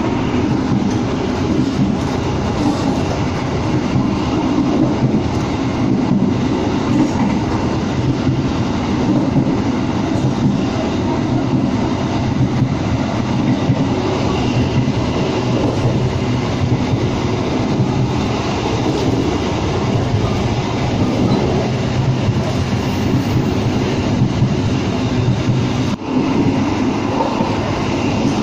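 Kaligung passenger train running along the line, heard from inside the carriage: a steady, loud rumble of wheels on the rails.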